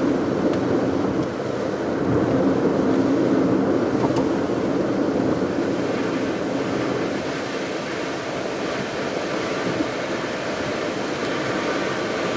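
Car driving along a road: steady tyre and engine noise heard from inside the car, with a couple of faint clicks.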